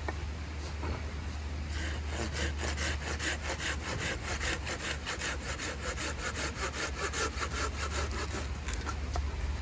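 Hand saw cutting through firewood in fast, even rasping strokes, starting about two seconds in and stopping near the end.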